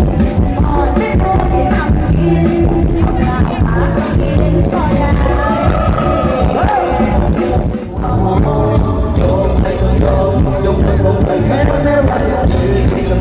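Loud live stage-show music through a PA system: a band with a heavy bass beat and a singer.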